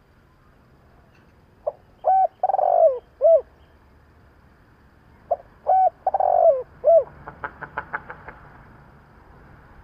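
Spotted dove cooing: two phrases of four notes each, each with one long note in the middle, followed by a quick run of about eight faint clicks.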